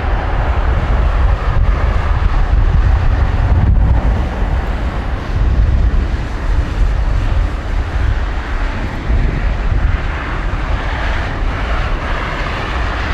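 Boeing 777-200ER's Rolls-Royce Trent 892 jet engines at takeoff thrust: a loud, deep, steady rumble with a rushing hiss above it.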